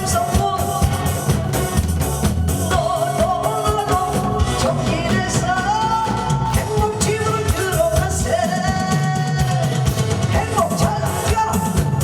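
A song sung with wavering vibrato over amplified backing music with a steady drum beat.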